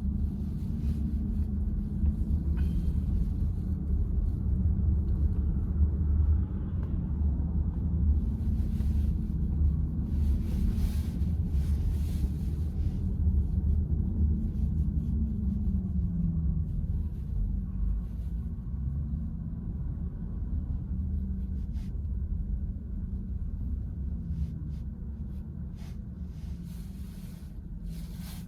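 Steady low tyre and road rumble inside the cabin of a moving VW ID.4 electric car, easing off and getting quieter over the last several seconds.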